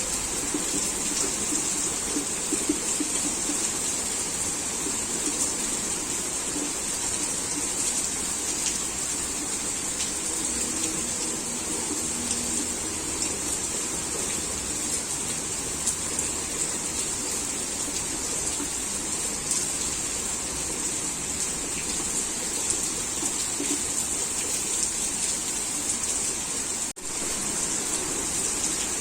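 Heavy rain falling steadily in an even hiss, with scattered sharper drop impacts. The sound cuts out for an instant about two seconds before the end.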